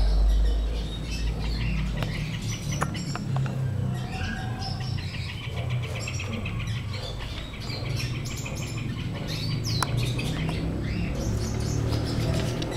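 Small birds chirping and trilling, with a steady low hum underneath.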